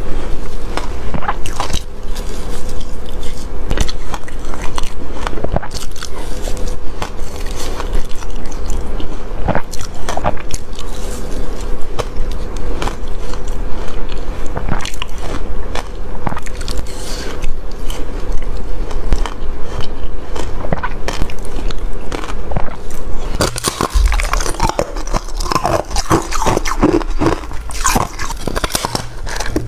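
Close-up crunching and chewing of soft reshaved ice, a steady run of sharp bites and crackles. In the last few seconds the crunching turns denser and brighter.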